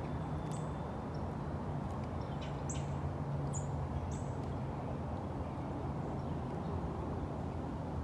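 About five short, high bird chirps, most in the first half, over a steady low rumble.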